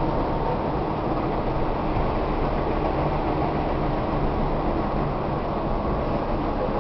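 Steady running noise inside a Tobu 1800 series electric train car under way: an even rumble of the wheels on the rails and the running gear, with no changes or distinct events.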